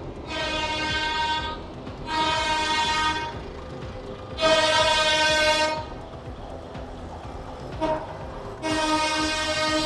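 Air horns on parade tractors sounding: four long blasts a second or two apart, with a short toot just before the last, over the low rumble of passing engines.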